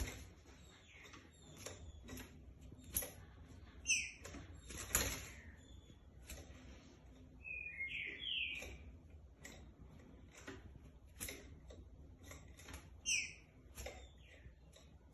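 Caged green-winged saltator (trinca-ferro) moving about its cage: wing flutters and quick clicks and taps against perches or bars, roughly one or two a second. A few short, sharp, falling call notes come now and then, with no full song.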